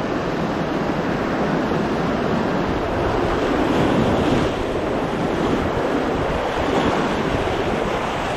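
Steady rush of river water around a drifting raft, with wind buffeting the microphone; it swells a little about four seconds in.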